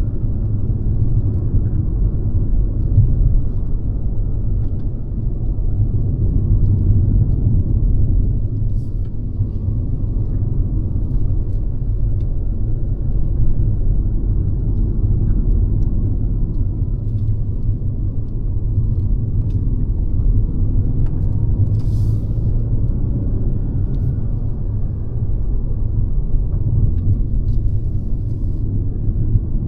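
Mercedes-Benz C-Class (W206) on the move: a steady low rumble of engine and road noise.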